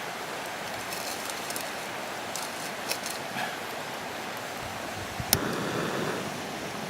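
Steady rush of a nearby river, with scattered small clicks and one sharper knock about five seconds in.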